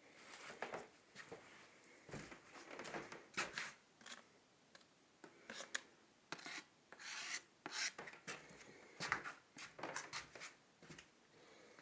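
Irregular scraping and rasping strokes of hand-tool work against a hard surface, some strokes short and sharp, others drawn out.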